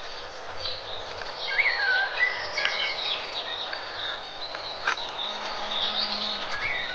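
Several birds singing and chirping at once, with short high chirps and a whistled note that dips and rises, over a steady outdoor hiss.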